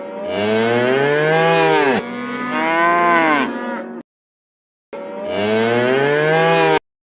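A cow mooing: three long moos of about two seconds each, every one rising and then falling in pitch.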